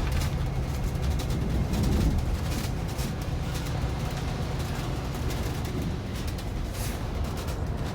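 Bus engine running steadily with road rumble and rattles.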